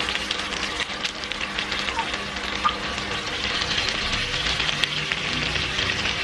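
Food frying in a pan: a steady sizzle with a dense crackle of small pops.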